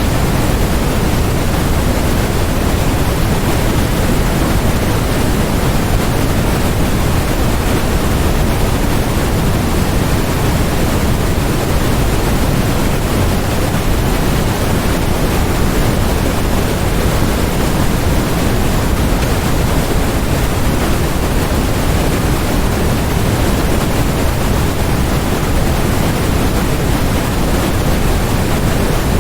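Steady electronically generated noise for masking: a constant, unchanging rush, heavier in the lows than in the highs.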